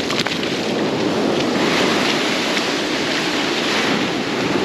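Ocean surf washing onto the beach, one wave's wash swelling about a second and a half in and easing off near the end.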